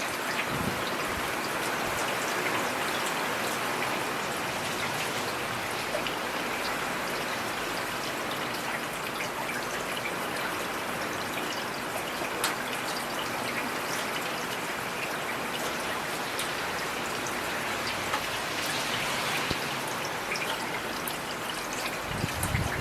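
Heavy rain falling steadily, a dense even hiss with individual drops ticking through it, one louder tick about halfway through.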